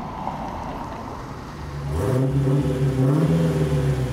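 A car drives by at low speed. Then, from about two seconds in, the deep, steady engine note of a Dodge Challenger pulling up comes in much louder, rising briefly a little after three seconds.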